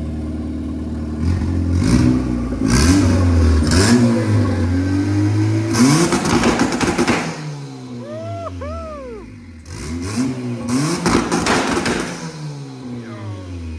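Tuned E85-fuelled car engine revving against a two-step launch-control rev limiter. The revs rise and fall several times from idle, with rapid crackling pops and bangs from the exhaust while it is held on the limiter. Really loud.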